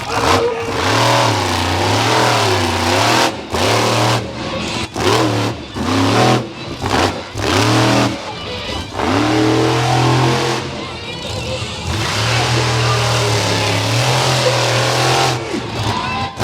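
Monster truck engine revving hard in repeated bursts, its pitch rising and falling every second or so, with short breaks between revs and a longer held stretch in the second half.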